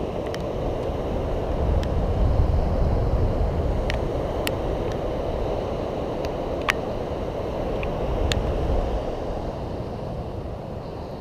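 Steady rumbling road and wind noise of a Xiaomi M365 electric scooter rolling along, swelling a little about two seconds in, with scattered sharp ticks.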